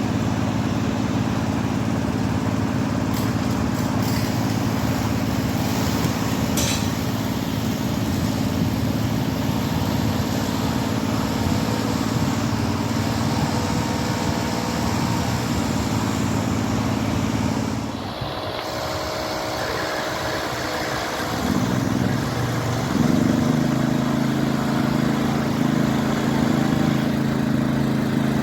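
An engine running steadily with a low drone. About two-thirds of the way through it drops away briefly, then a louder engine note with a different pitch comes in and runs on.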